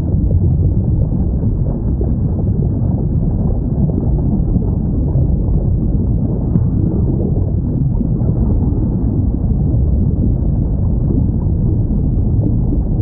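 Steady low underwater rumble, with no distinct whale call standing out. A faint short click comes about six and a half seconds in.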